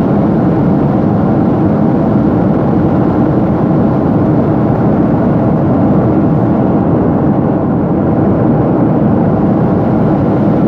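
Steady cabin noise of a jet airliner in flight after takeoff: a constant, even rush of engine and airflow noise heard from inside the passenger cabin.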